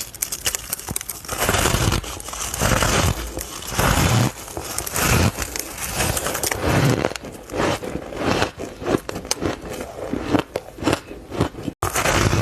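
Close-miked crunching of ice and powdery frost being bitten and chewed, in a run of crisp crunches about a second apart. The sound drops out for an instant near the end.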